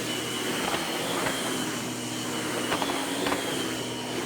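Miele upright vacuum cleaner running steadily, a constant rushing of air with a high motor whine, with a few faint clicks along the way.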